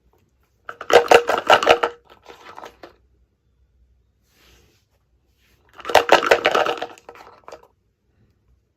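Toy packaging being handled and opened by hand: two bursts of dense rustling and clicking, about a second each, near the start and again about six seconds in, each trailing off into softer rustles.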